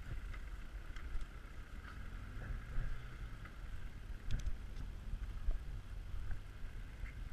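Steady low engine and road rumble heard from inside a moving vehicle, with a few knocks and rattles, the sharpest about four seconds in.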